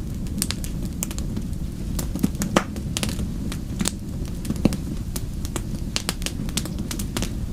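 Wood fire in a fireplace crackling: irregular sharp pops and snaps over a steady low rumble of the flames, with a couple of louder pops around the middle.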